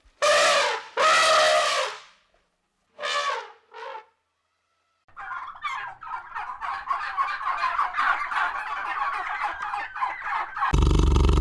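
Animal calls: two loud pitched calls and a shorter third one, then after a brief pause a long rapid chattering, gobble-like series of calls. Near the end a loud, deep roar cuts in.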